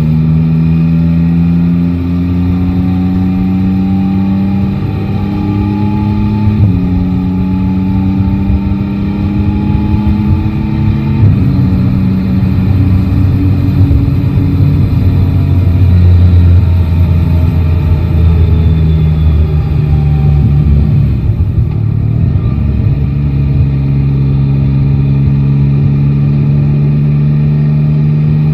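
Yamaha Tracer 9 GT's 890 cc three-cylinder engine pulling up through the gears, its note rising and dropping sharply at upshifts about 7 and 11 seconds in. A rougher, noisier stretch follows, and the last few seconds hold a steady, even note.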